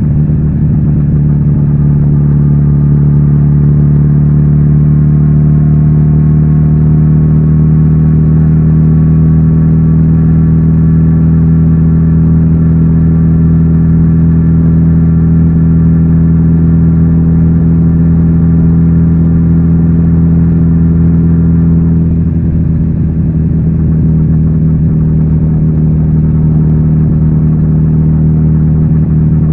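Kawasaki Z900RS inline-four engine running through its stock exhaust at a steady engine speed. The tone changes slightly about three-quarters of the way through, then holds steady again.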